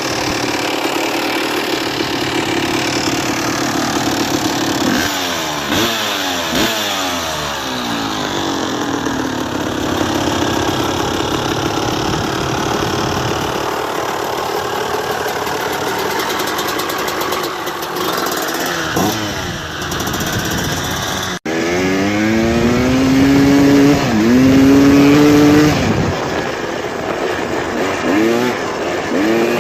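Dirt bike engines revving and accelerating, the pitch climbing and dropping in several runs. The loudest rev comes a little after two-thirds of the way in.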